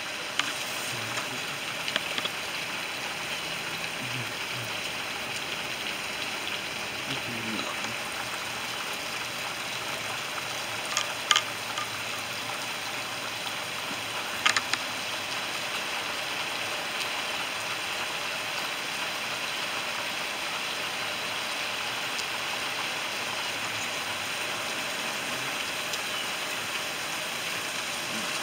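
Steady rain falling, an even hiss throughout, with a few sharp taps near the start and twice more around the middle.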